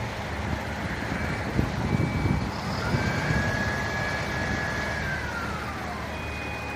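An emergency vehicle's siren winds up to a steady wail, holds for about two seconds, then slowly winds down, over a steady low engine and wind rumble.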